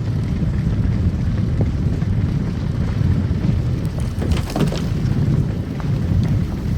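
A car driving on a snow-covered road: a steady low rumble of tyres and engine, with a few small crackles and knocks about four to five seconds in.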